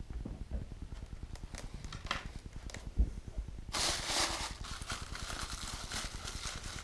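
Plastic packaging rustling and crinkling as parts of a metal scale-model crane are unwrapped by hand, with small clicks, a dull knock about three seconds in and a louder burst of rustling just after.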